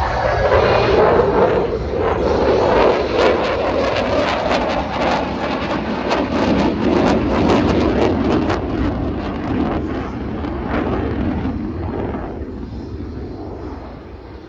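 Eurofighter Typhoon jet fighter passing by at an air show display, a loud jet roar whose pitch sweeps down and back up with some crackle in the middle, fading away over the last few seconds.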